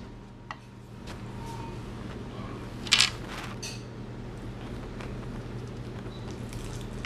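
Close-miked eating sounds: a person chewing crispy fried chicken flautas, with a few short crackles and a louder crunch about three seconds in, over a steady low electrical hum.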